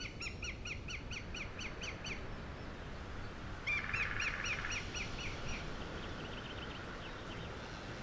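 Songbirds singing: a quick run of repeated chirping notes, about five a second, for the first two seconds, then a second burst of song about three and a half seconds in. A steady low background noise runs underneath.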